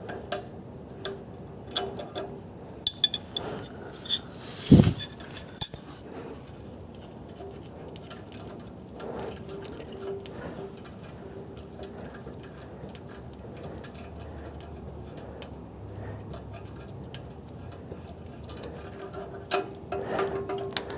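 Metallic ticking and rattling from a Hyundai Elantra's engine bay, with a steady tone underneath. A cluster of louder metal clinks and a thump comes a few seconds in.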